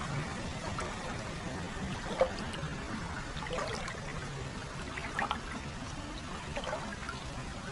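Hot-spring water flowing continuously into a foot bath: a steady trickling and pouring, with scattered small splashes.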